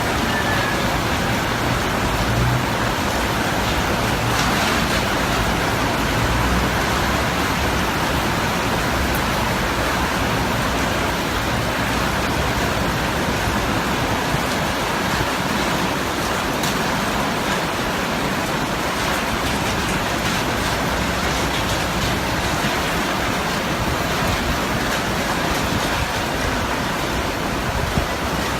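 Steady rushing noise of typhoon rain and wind, even throughout, with a small knock near the end.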